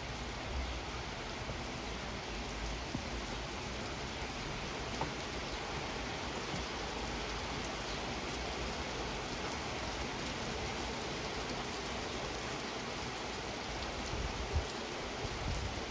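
Steady rain falling during a thunderstorm, an even hiss with a few low thumps near the end.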